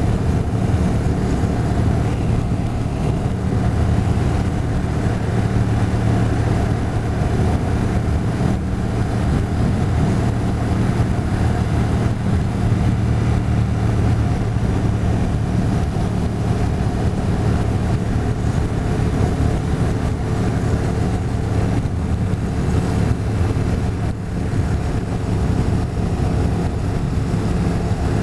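Motorcycle engine running steadily at cruising speed, its low hum unchanging, with a rush of wind over the microphone.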